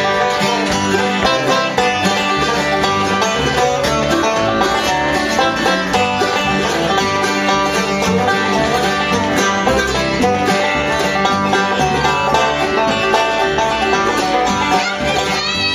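A bluegrass band playing an instrumental intro, banjo and guitar picking over a steady bass.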